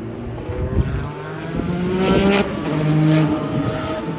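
Historic GTP prototype race car engine at full throttle on track, its note rising and changing pitch several times as it accelerates.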